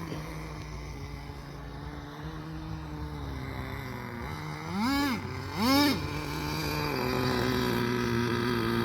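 RC10GT nitro truck's small two-stroke glow engine running, blipped up sharply twice in quick succession just past the middle, then settling into a steady, slightly higher hum.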